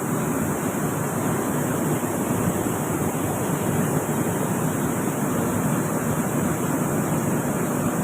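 Overlock sewing machine running steadily at speed, its stitching blurring into an even whirring noise.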